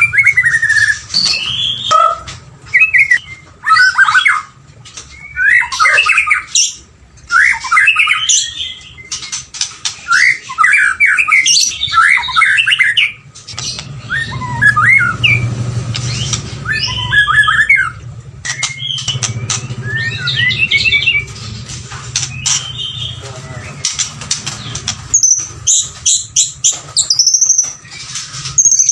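White-rumped shama singing a long run of varied, rapid phrases of whistles and harsh chattering notes, broken by short pauses.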